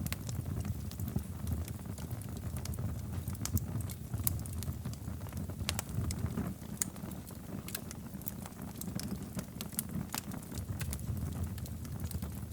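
Wood fire burning in a fireplace: a steady low rumble of flames with frequent irregular pops and crackles.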